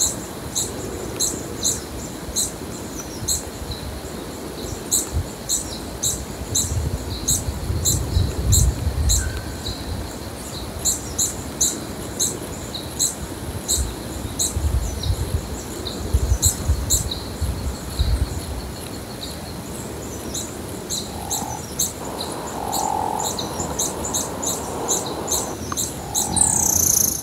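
Sharp, high-pitched chirps repeating about twice a second, from a bird, over a low intermittent rumble; a few short, softer, lower notes come in near the end.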